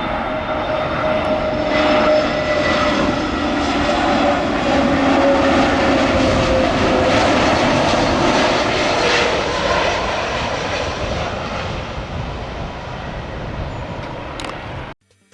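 Airliner passing close overhead near the runway end: steady engine noise with a tone that slowly falls in pitch as it goes by. The sound cuts off suddenly near the end.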